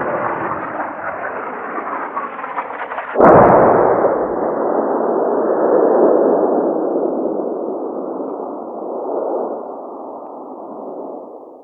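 Two sound-effect clips in a row: a rough, noisy sound that cuts off about three seconds in, then a sharp crack followed by a long rumbling noise that slowly fades away over about eight seconds.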